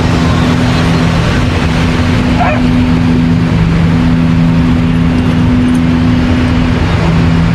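A dog barks once, about two and a half seconds in, over a steady loud rush of surf. A low steady hum runs underneath and breaks off briefly a few times.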